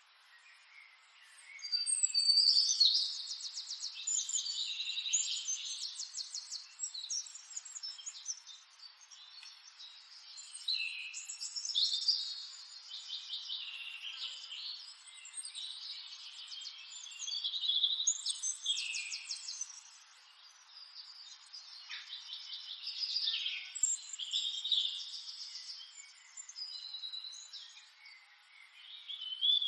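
Songbirds singing: bursts of high, quick trilled phrases every few seconds, over a faint steady hiss.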